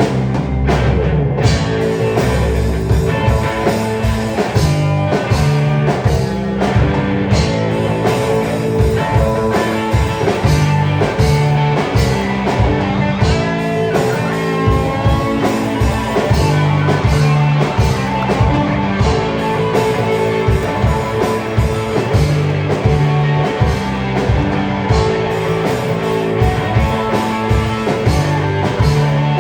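Rock band playing live, with guitar and a drum kit keeping a steady beat.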